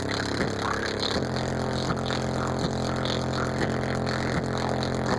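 Heavy bass from a car audio system with four Fi BL 15-inch subwoofers powered by two Sundown SAZ-3500D amplifiers, playing a song's bass line. The low notes are held steadily, shift to a new pitch about a second in, and carry a faint regular beat.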